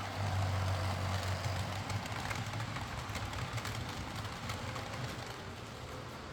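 Heljan Class 23 OO gauge model diesel locomotive running, its motor and drive gears humming steadily with scattered light clicks. The hum is strongest in the first second or so. The loco runs with its split gears replaced.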